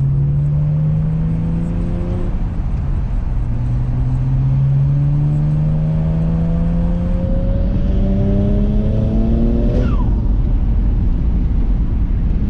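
BMW 335i's N54 twin-turbo inline-six, with catless downpipes and resonator exhaust, pulling hard under full throttle. The engine note climbs, dips at a gear change about two and a half seconds in, climbs again for about seven seconds, then falls away suddenly about ten seconds in.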